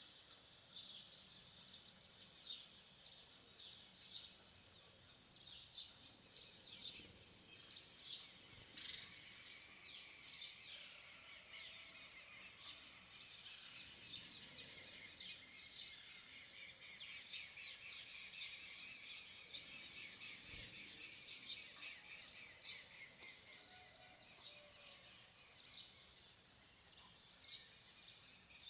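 Faint, continuous chorus of small birds chirping rapidly in a high register over a weak steady hiss of outdoor background noise.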